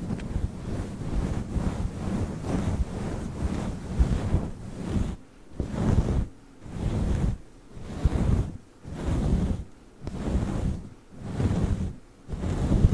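Fluffy microphone cover rubbed and brushed over the microphone, a dense rushing sound like wind on the mic. It is fairly continuous at first, then about five seconds in it turns into slow strokes that swell and fade about once a second.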